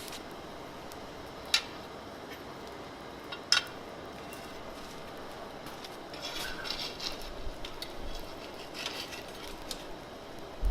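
Metal clinking in a blacksmith's shop: two sharp single clinks about two seconds apart, then several seconds of lighter, rattling clinks of steel against steel.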